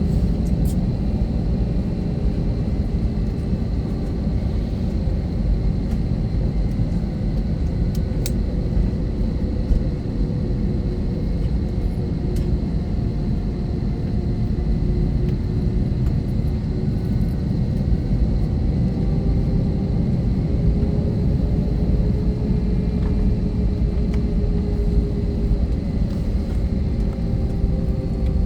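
Cabin noise of an Airbus A321-231 with its IAE V2500 engines running steadily: an even low rumble with faint whining tones that drift slightly in pitch and a thin high steady tone.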